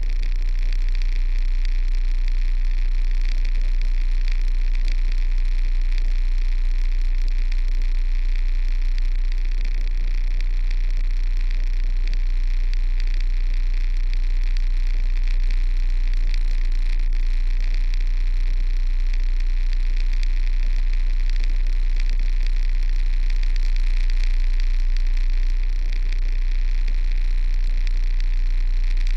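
Kenworth truck's diesel engine running steadily, a deep low drone that holds at one level.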